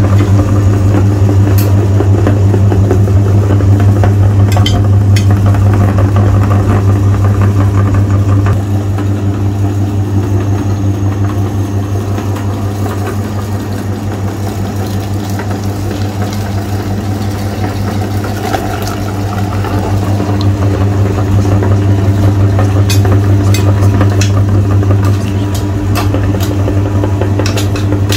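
Electric meat grinder's motor running with a loud, steady hum, with scattered sharp clicks. The sound eases off somewhat through the middle and comes back up later.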